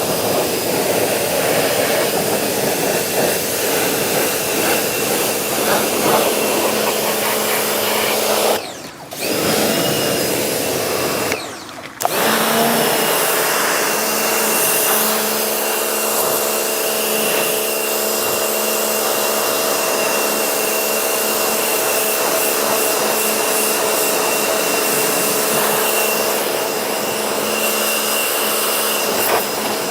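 Pressure washer running, a steady hiss of the water jet over the machine's steady whine. The spray cuts out briefly twice, about three seconds apart, a third of the way through, then runs on steadily.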